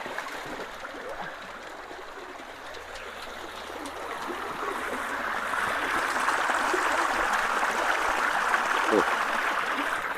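Stream water rushing through a culvert, a steady rushing noise that grows louder about halfway through.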